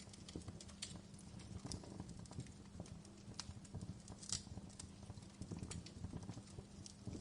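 Wood fire crackling in a fireplace: irregular pops and snaps over a low rumble, a few of them sharper than the rest.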